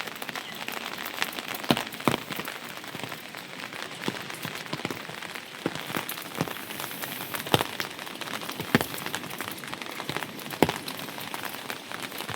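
Steady rain falling, with scattered heavier drops striking close by at irregular intervals.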